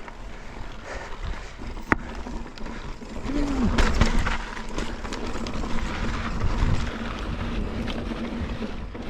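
Mountain bike riding over slickrock: tyres on rock and the bike rattling over ledges, with a sharp knock about two seconds in and the loudest, roughest stretch around four seconds in.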